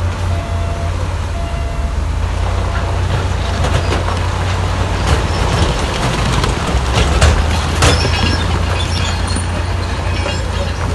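Heavy diesel earthmoving machinery running with a steady low engine drone. A run of clanks and rattles comes in the middle, the loudest about seven to eight seconds in.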